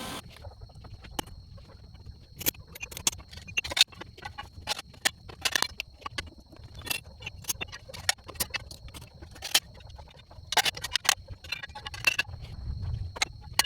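Irregular sharp clicks and taps, a few a second, over a faint steady high-pitched tone.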